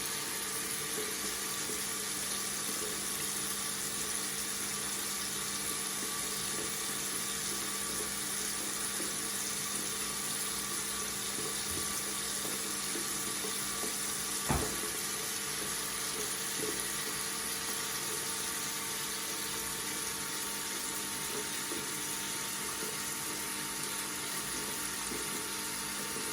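Water running steadily from a faucet, an even hiss, with one short click about halfway through.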